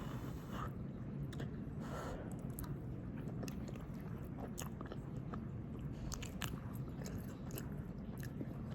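A person chewing a large mouthful of soft pasta with chicken, with small wet mouth clicks scattered throughout over a steady low background hum.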